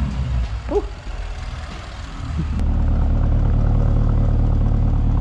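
Lamborghini Urus twin-turbo V8 idling, heard close to its exhaust tips. It grows louder a little over two seconds in, then holds a steady low hum.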